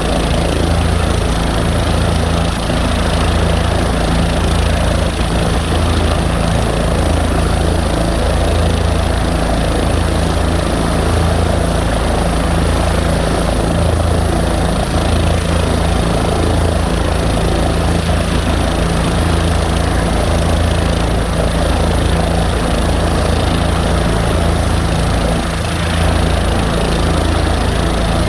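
Helicopter running loud and steady on the ground, its turbine and rotor holding one speed with a pulsing low throb.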